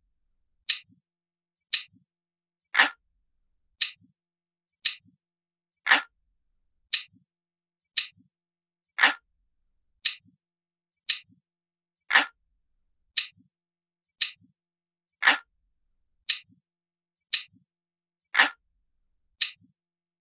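Glass-like clock ticking, crisp and even, about one tick a second. Every third tick is louder and fuller.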